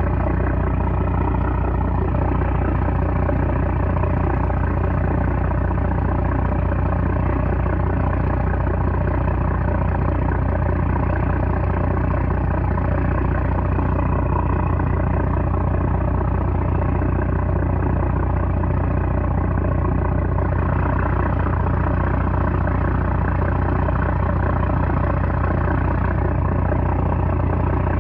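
A small trawler's 330-horsepower engine running steadily, a constant deep drone.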